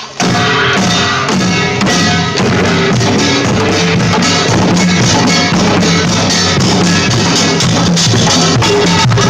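Live band music with a drum kit: kick and snare keep a steady beat under sustained bass and other instruments. The music comes in just after a brief break at the start.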